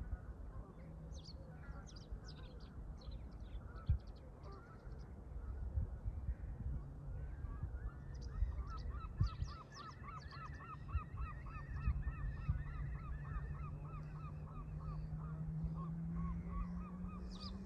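Canada geese honking in a fast, even series of calls, about three a second, starting about halfway in, over a low steady rumble of wind. Short high chirps come and go, and a low hum slowly rises in pitch toward the end.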